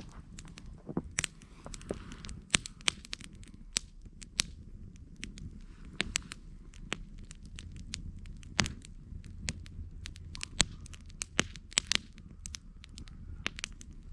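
Campfire burning: wood crackling and popping in sharp, irregular snaps over a low, steady rumble of the flames.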